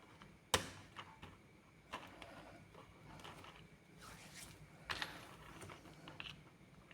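Plastic building bricks clicking as they are fitted and pressed together, with one sharp snap about half a second in and lighter scattered clicks and taps after it.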